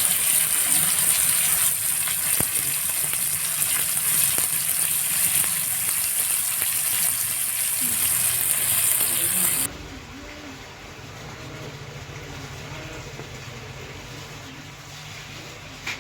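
Masala-coated chicken leg pieces sizzling as they fry in hot oil, a steady hiss. About ten seconds in it drops abruptly to a much quieter sizzle.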